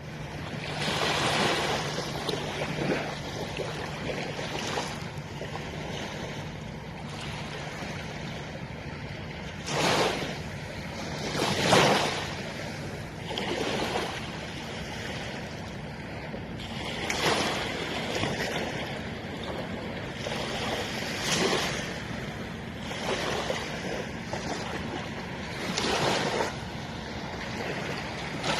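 Mediterranean waves breaking on the beach, the surf swelling and falling away every few seconds, with the loudest breakers about ten and twelve seconds in.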